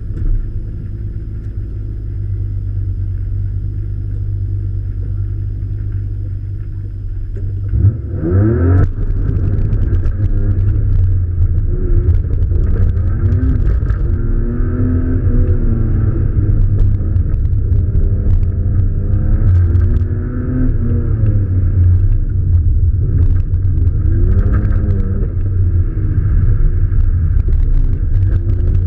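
Car engine heard from inside the car, muffled: it holds steady for about eight seconds, then revs up hard near the 8-second mark as the car launches, and keeps climbing and dropping in revs through the gears and corners of an autocross run.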